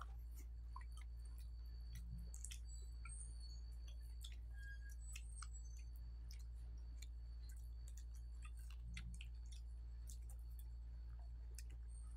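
Faint chewing with scattered wet mouth clicks and smacks from people eating fried chicken with their hands, over a steady low hum.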